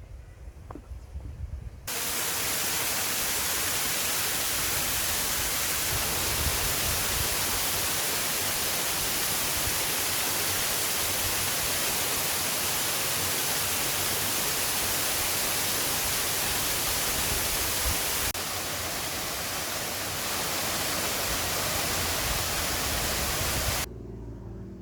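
Loud, steady rush of fast-flowing river water, starting and stopping abruptly, with a slight drop in level about three-quarters of the way through.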